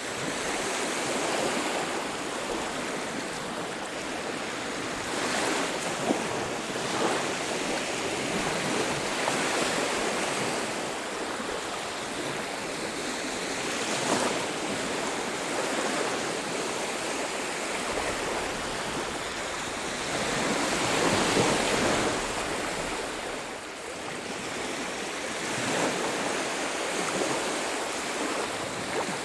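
Sea surf washing onto a beach: a continuous hiss of breaking waves that swells and ebbs, with a louder wave about two-thirds of the way through.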